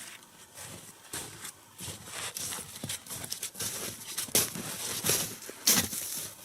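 Irregular crunching steps and knocks in snow, growing louder in the second half.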